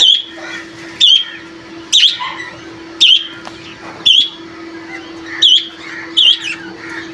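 Grey francolins calling: a run of loud, shrill notes, about one a second, eight in all, with softer chirps between them. A steady low hum runs underneath.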